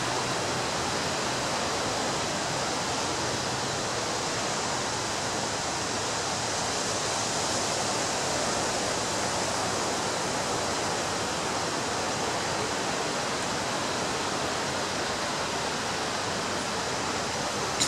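Ocean surf breaking on a beach: a steady, continuous rushing wash of waves with only a slight swell about halfway through.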